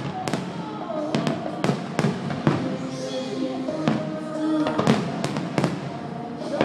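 Fireworks display: aerial bursts going off in an irregular run of sharp bangs, at times several a second, with music playing along.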